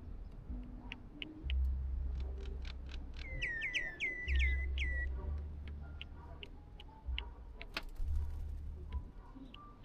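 A bird gives a quick run of about eight short, sharp calls, each dropping in pitch, about three seconds in. Scattered light clicks and taps run through the rest, with a low rumble coming and going.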